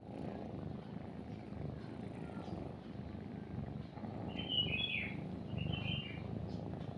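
A cat purring steadily and close, a continuous low rumble. Partway through, a bird chirps in two short phrases.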